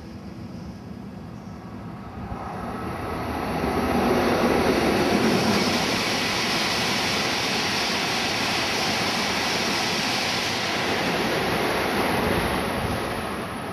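Tohoku Shinkansen bullet train passing at high speed close by: a rising rush of air and rail noise, loudest about four seconds in, then a long steady roar as the train's many cars go by, easing near the end.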